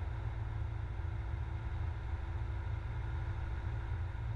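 Cessna 172SP's four-cylinder Lycoming engine and propeller as a steady low drone, heard through the headset intercom feed.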